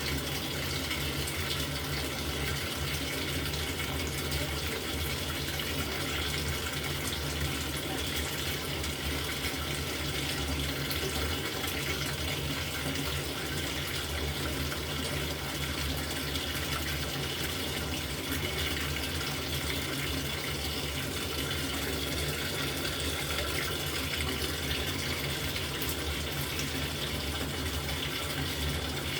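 LG top-loading washing machine filling its tub: water pouring in steadily, with a low hum underneath.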